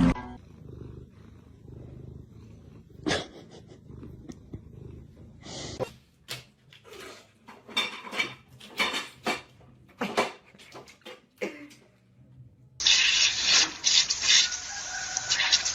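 A domestic cat making a series of short calls in quick succession, followed near the end by a louder stretch of steady noise.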